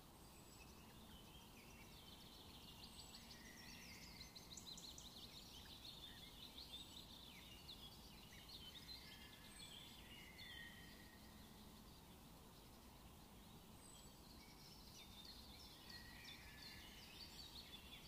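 Faint chirping and twittering of small birds in quick runs of high notes, over a low steady background hiss.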